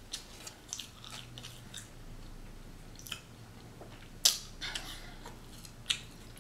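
A person chewing a mouthful of bacon barbecue burger close to the microphone, with a string of short wet mouth smacks; the sharpest smack comes about four seconds in.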